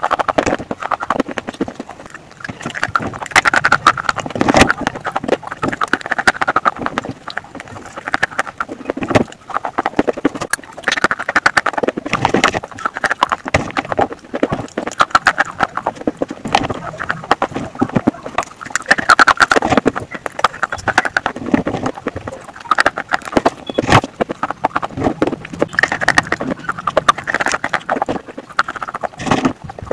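Slate pencils cracking and crunching between the teeth as they are bitten and chewed, a continual run of sharp clicks and crackles in irregular clusters.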